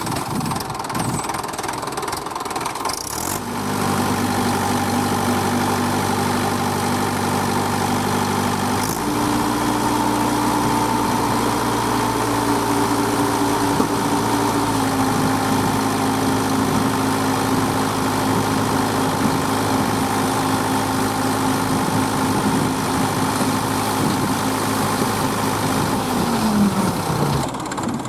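Diesel engine of a heavy working machine running steadily. It picks up to a higher speed about nine seconds in, then winds down near the end.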